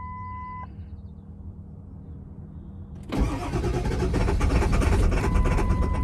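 A truck's starter cranking the engine for about three seconds, beginning about halfway through, on a jumper-box boost; the engine turns over but does not fire, a truck that won't start that the owner suspects has something wet in it. A steady electronic beep sounds at the start and again near the end.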